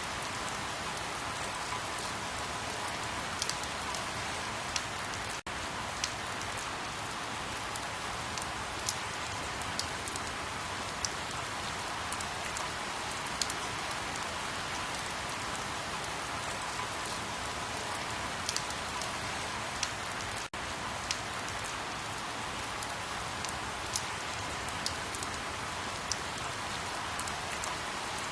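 Steady rain falling, an even hiss with many separate drops ticking sharply through it. The sound cuts out for an instant twice, like the seams of a looped recording.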